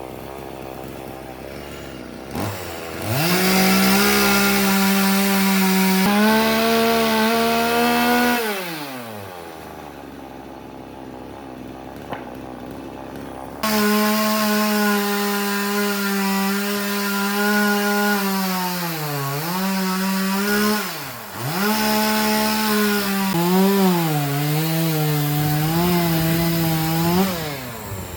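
Chainsaw running at high revs, then dropping back toward idle; it returns to full speed and its pitch sags and recovers several times as it bogs under load in the cut.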